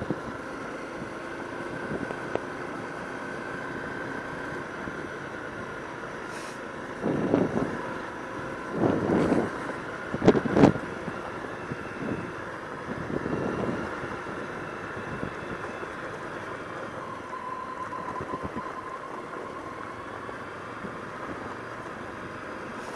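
Motorcycle engine running steadily, with a few louder surges between about seven and eleven seconds in.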